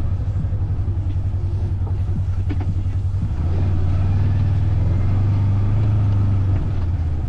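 Engine of a ridden vehicle running with a low, rapid, even pulse. It gets louder about three and a half seconds in as the throttle opens, then eases back near the end.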